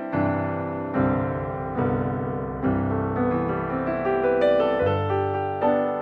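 Piano music: notes and chords struck about once a second, each ringing on until the next.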